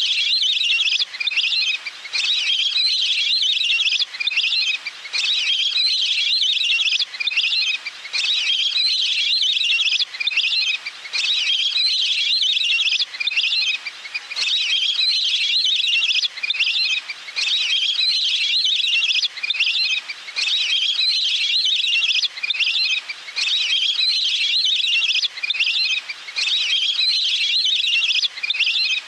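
Little grebe's high trilling call, repeated over and over in bursts of one to three seconds with short breaks: a bird-call recording played on a loop as a lure.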